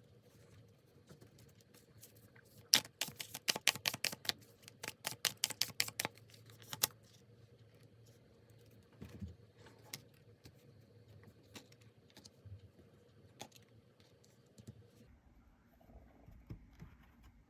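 Tarot cards being shuffled by hand: a quick run of crisp card slaps and clicks, about seven a second, for some four seconds, followed by occasional single clicks as cards are handled.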